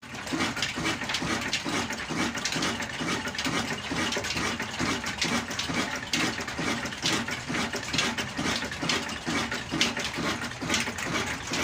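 Kala 22 HP, 300 RPM diesel oil engine running with a steady, even rhythmic beat, about four beats a second.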